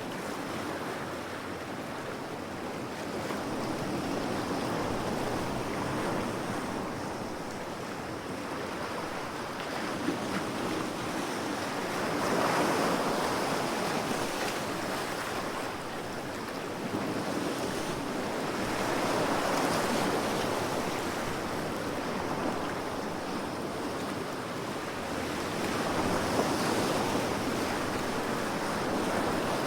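Ocean waves washing onto a shore, a continuous rush of surf that swells and recedes every six or seven seconds.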